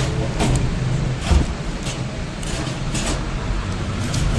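Steady low vehicle rumble, like passing traffic, with about half a dozen sharp clicks and knocks scattered through it, the loudest knock a little over a second in.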